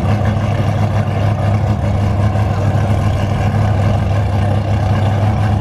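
Muscle-car engines idling, a loud, steady, low engine note with no revving.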